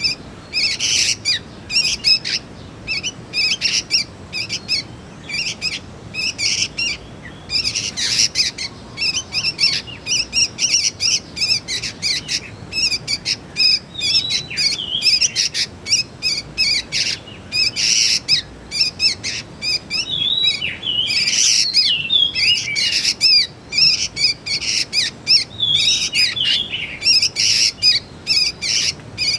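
Young sooty-headed bulbuls calling: a dense, unbroken run of quick short chirps, with now and then a few bending, rising-and-falling notes.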